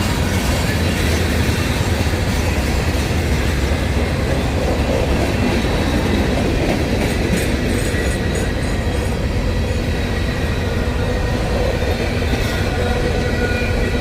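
CSX freight train rolling past, a steady, unbroken rumble of its wheels on the rails.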